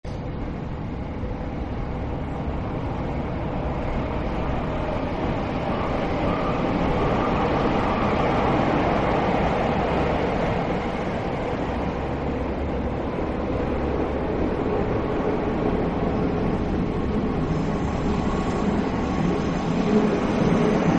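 MEMU electric multiple-unit train running along the track, growing louder over the first several seconds and then holding steady.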